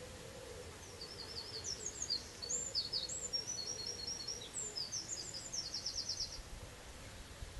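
A small songbird singing one high, rapid song of varied chirps and whistles for about five seconds, starting about a second in and ending in a fast trill.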